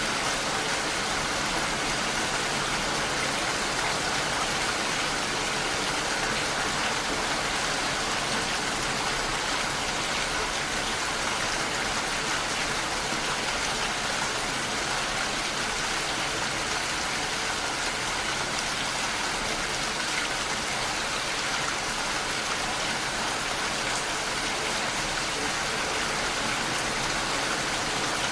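Steady rain, an even hiss of falling drops without pause or change.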